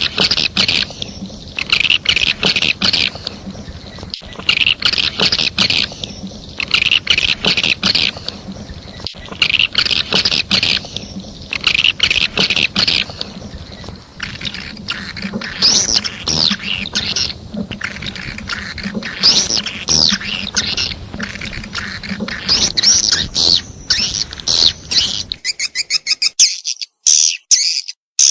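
Edible-nest swiftlet calls from a swiftlet-house lure recording: groups of rapid high twittering chirps, each about a second long, that become denser with gliding notes in the second half. About 25 seconds in, the background hiss cuts out abruptly as the recording switches to a cleaner track.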